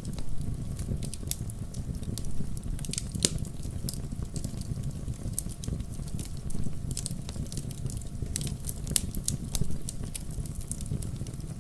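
Wood campfire burning with a low steady rumble and frequent irregular sharp crackles and pops, several a second.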